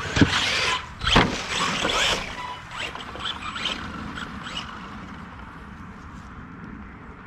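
Electric RC truck being driven hard: two sharp knocks about a second apart, like hard landings or hits, then a string of short high squeaks and motor whines that fade as it drives away.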